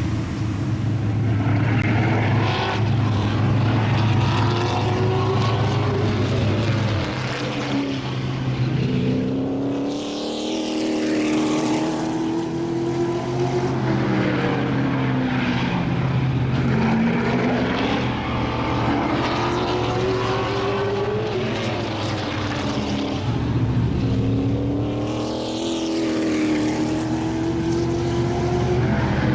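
Race car engines out on the track, the pitch climbing as they accelerate and dropping as they ease off, about every seven seconds, over a steady low engine hum.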